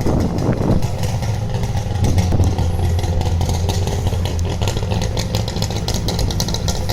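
An old vehicle's engine running steadily at low revs, with a rougher burst in the first second and light rapid ticking over it in the second half.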